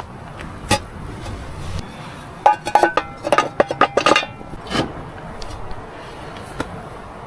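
Cookware and utensils being handled and clinking, with a quick run of sharp ringing clinks about two and a half to four and a half seconds in, over a steady background hiss.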